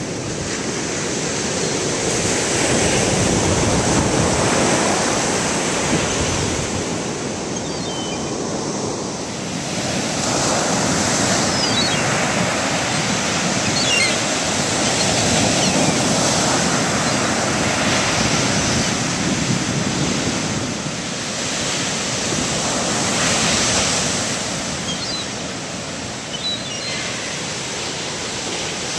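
Ocean surf breaking on a beach, a steady wash that swells and fades every several seconds. A few faint, short high calls come through it now and then.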